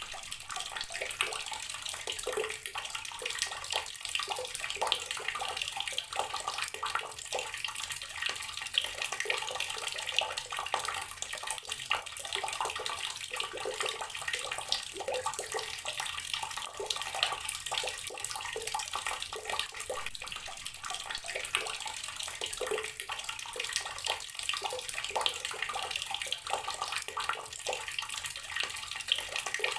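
Water tap running steadily, its stream splashing continuously into water below with small irregular spatters.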